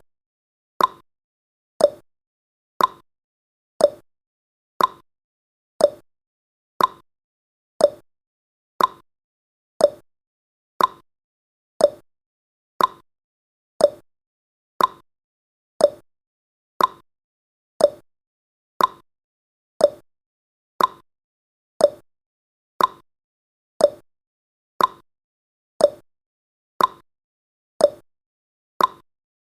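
Countdown timer tick sound effect: one short, sharp tick every second, steady and even.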